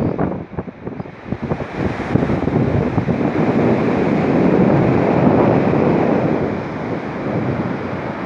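Steady rushing of fast-flowing water with wind buffeting the microphone, gustier and more uneven in the first two seconds.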